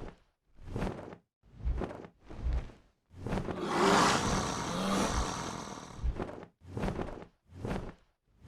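Creature sound effects: regular wing-beat bursts, a little more than one a second, broken up by one long roar of about three seconds.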